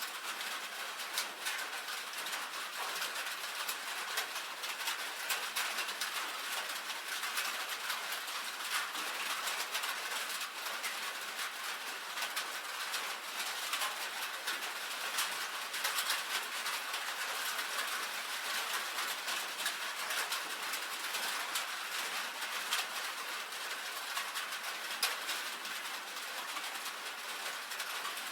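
Rain falling on a tin roof: a dense, steady patter of drops ticking on the metal sheets.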